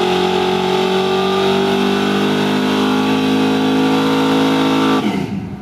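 A car engine held at steady high revs, one even tone, fading out near the end.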